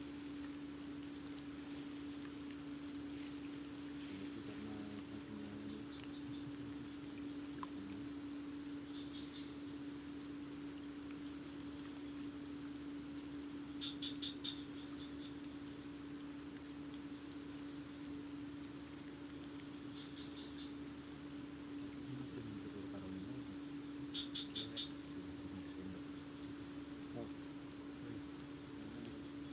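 Night insects: a continuous high, rapidly pulsing cricket trill, with a short burst of chirps from another caller about every five seconds, over a steady low hum.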